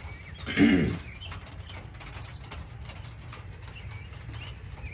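Faint bird chirps and scattered light ticks over a steady low hum, with a brief low sound falling in pitch about half a second in.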